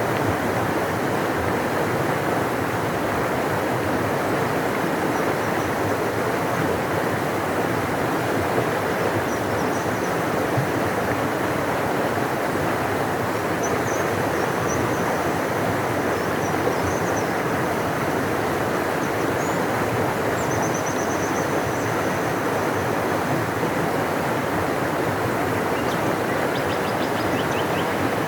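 A large river rushing steadily, an even deep wash of water noise. Faint high bird chirps and short trills come through it now and then.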